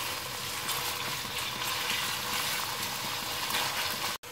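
Raw chicken pieces sizzling in hot oil in a non-stick wok while a spatula stirs them, a steady frying hiss. The sound cuts out for an instant near the end.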